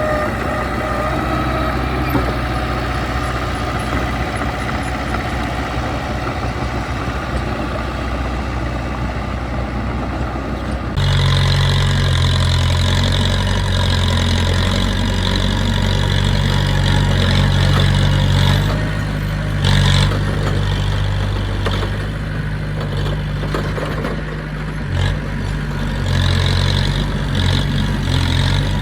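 Diesel engine of heavy earthmoving equipment running steadily. About a third of the way in the sound changes abruptly to a louder, deeper engine note with a steady hiss over it, and a single short knock comes a little past the middle.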